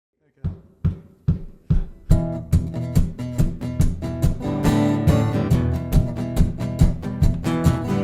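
Guitars playing a driving rhythmic intro: a few separate sharp strokes about twice a second, then full strummed chords from about two seconds in, keeping the same pulse.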